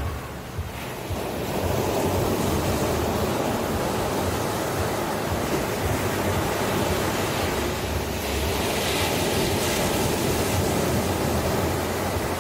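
Ocean waves washing onto a shore, a steady surf rush that swells about a second and a half in and then holds.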